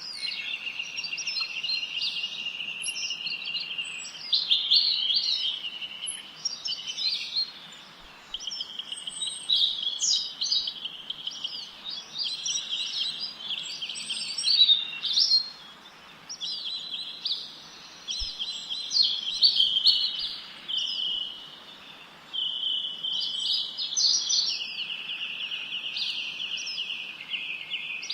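Songbirds singing and chirping, with long steady high trills that break off and start again every few seconds, overlaid with quick varied chirps.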